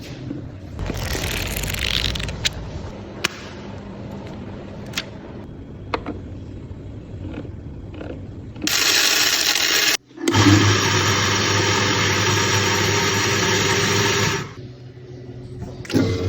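Clicks and rustling of handling, then an electric coffee grinder's motor runs: a short burst, a brief break, and about four seconds of steady whirring with a low hum, stopping abruptly.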